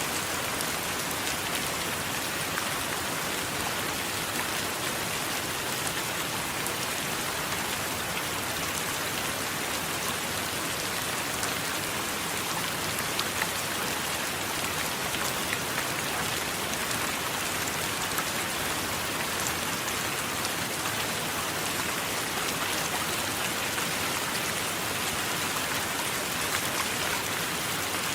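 Steady rain: an even hiss with scattered sharp ticks of individual drops striking a surface.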